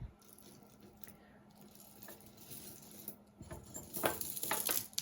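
Jewelry pieces being handled, with soft rustling and light clicks. These come mostly in the last second and a half, after a quiet stretch.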